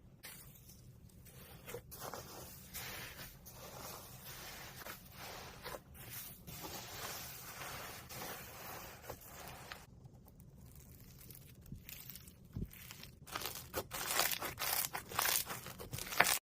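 Slime being squeezed, stretched and pressed by hand, with irregular sticky crackling and popping, denser and louder near the end.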